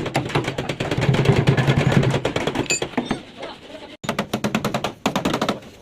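A rapid, even train of sharp knocks at about ten a second, with a short break about four seconds in. It is typical of a pneumatic tool or fast hammering on car body metal.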